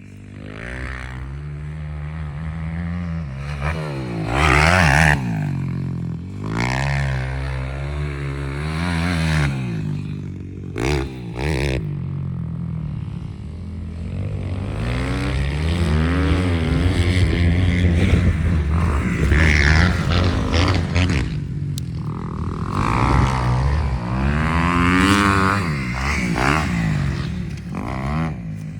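Motocross engines repeatedly revving up and dropping back through the gears as they lap the track, getting louder as machines pass close, briefly about five seconds in and again for a long stretch in the second half.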